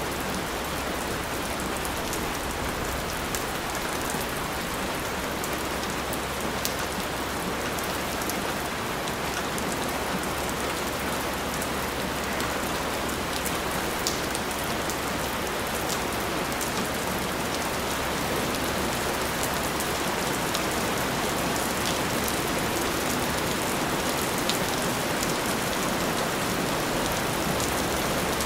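Steady, heavy rain falling on a surface, with a dense hiss and scattered individual drop ticks.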